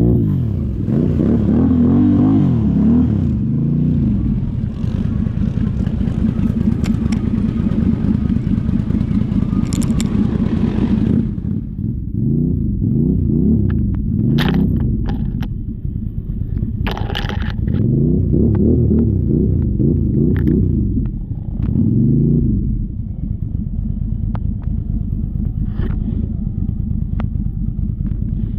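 An off-road vehicle's engine revving up and down over and over, as in working through mud and water, with scraping and clattering knocks mixed in.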